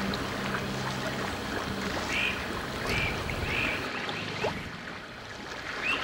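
A bird calling repeatedly from about two seconds in, short arched notes that rise and fall, over a steady wash of water noise.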